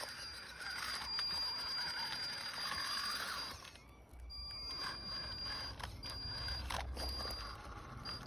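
Electric motor and gears of a WLtoys 10428 radio-controlled rock crawler running as it drives over the track, with a thin high whine; it stops briefly about four seconds in, then runs again.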